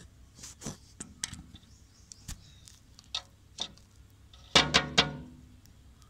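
Woodpecker pecking at a room's mirror: scattered single hard taps of beak on glass, then a quick run of about four louder taps with a brief ringing about three quarters of the way through.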